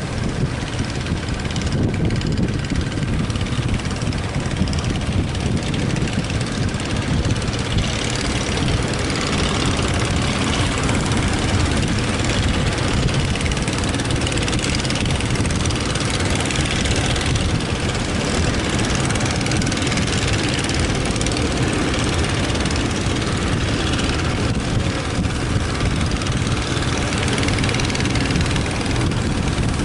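Fishing boat's engine running steadily under strong wind that buffets the microphone, a loud, continuous low rumble with a rushing hiss over it.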